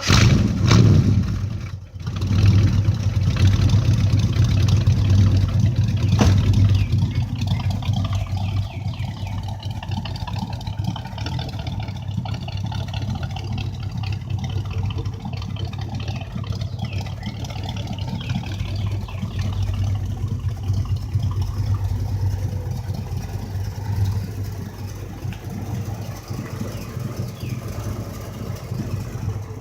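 1967 Camaro's engine and exhaust coming in suddenly and revving, dipping briefly about two seconds in, then running loud and steady before easing into a steadier idle from about seven seconds in.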